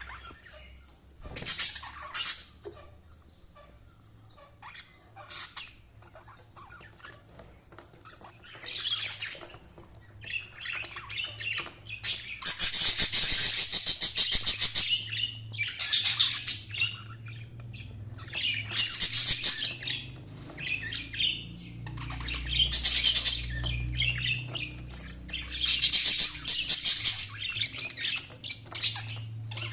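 Budgerigars chirping and warbling in bouts, sparse at first and then in long, busy stretches of rapid chatter.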